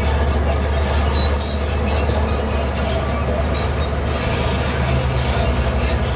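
Heavy diesel engine of a crawler bulldozer running steadily, with metallic clanking on top. From about four seconds in, the low engine note takes on an even pulsing.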